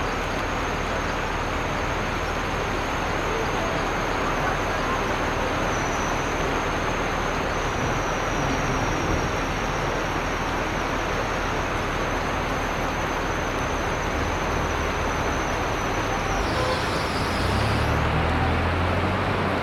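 Heavy rain falling in a steady, even hiss. A low rumble joins in near the end.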